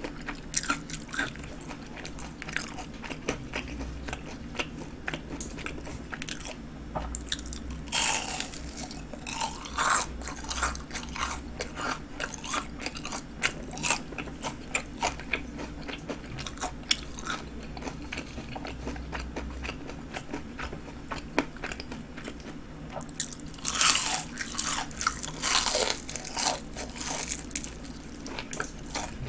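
Chewing and crunching of crisp breaded fried jumbo shrimp, the crust crackling in rapid small clicks. The crunching grows louder about eight seconds in and again in a stretch near the end.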